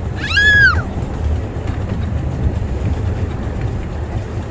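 Miniature railway train running with a steady low rumble, and a short high-pitched squeal near the start that rises then falls in pitch over about half a second.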